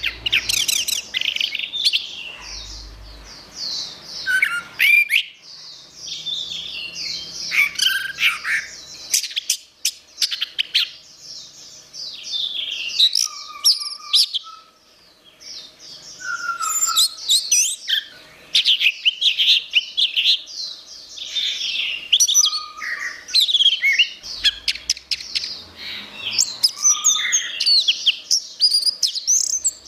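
Orange-headed thrush singing a continuous, varied song of fast warbled phrases, trills and sharp high notes, with short pauses about ten and fifteen seconds in.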